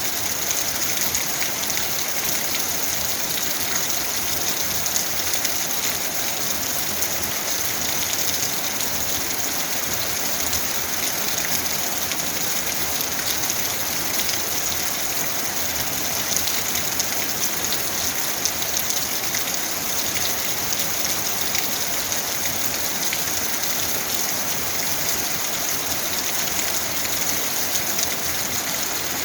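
Steady rain falling and pattering on surfaces, a constant even hiss with many fine drop ticks.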